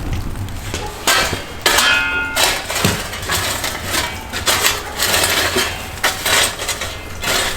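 Cookware and utensils being handled: a run of knocks and scrapes, one with a short metallic ring about two seconds in.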